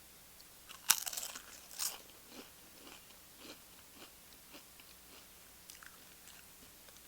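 Corn tortilla chip bitten close to the microphone: a loud crunch about a second in and a second one just after, then crisp crunching chews roughly twice a second, fading.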